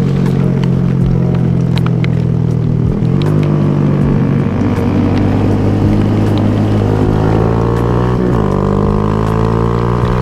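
Honda Grom motorcycle engine running under way. Its revs dip briefly about three seconds in, climb steadily, drop sharply about eight seconds in as at a gear change, then climb again.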